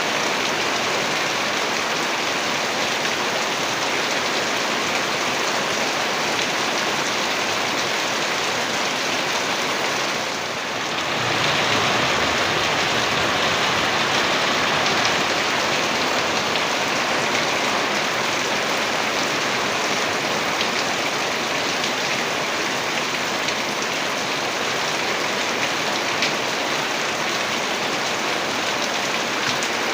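Heavy rain falling steadily, an even hiss that dips briefly about ten seconds in and comes back a little louder.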